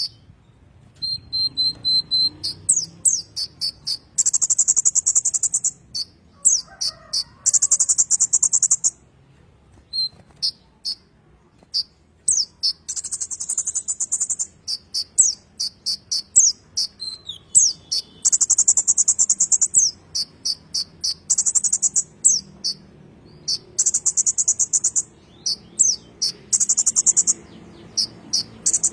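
A sunbird, the 'kolibri ninja' of Indonesian bird keepers, singing on and on: very high, fast buzzing trills of a second or two alternating with quick sharp sweeping chirps, phrase after phrase with short pauses.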